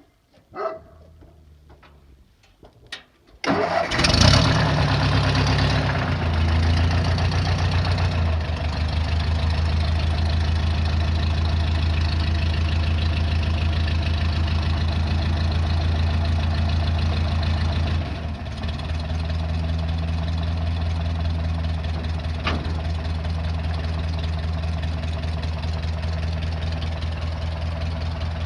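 Tractor engine starting after a few short clicks, catching about three and a half seconds in, then running steadily. Its speed and loudness drop slightly past the middle.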